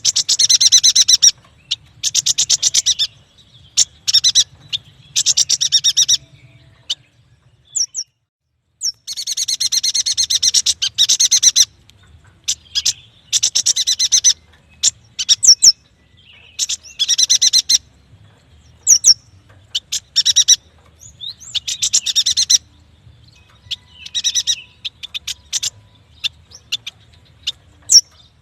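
Yuhina singing: repeated bursts of rapid, high chattering trills, each lasting one to three seconds, broken by pauses and short single call notes.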